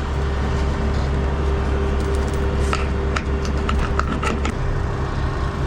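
Semi truck's diesel engine running, heard from inside the cab, as the rig pulls forward to set up for another maneuver: a steady low rumble with a constant hum over it, a few sharp clicks in the second half, and the rumble easing slightly about four and a half seconds in.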